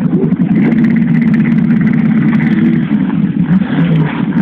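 Motorcycle engines running loudly at fairly steady revs.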